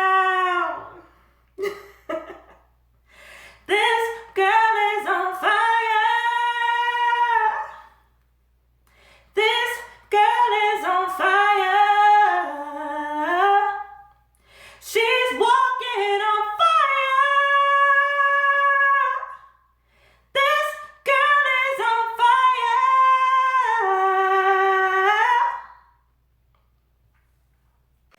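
A woman singing unaccompanied in five long wordless phrases with short breaths between them, the voice bouncing a little in a small room; it stops about two seconds before the end.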